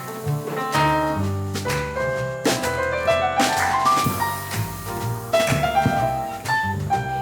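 Jazz piano trio playing an instrumental passage: piano over a walking double bass and drum kit with cymbal strokes, the piano playing a rising run of notes about three seconds in.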